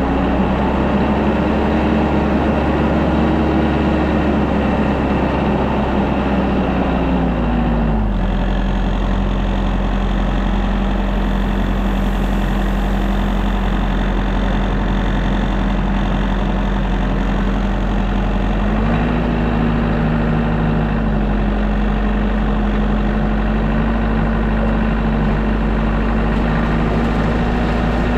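Tractor engine running steadily. Its speed drops about eight seconds in and picks up a little again near nineteen seconds.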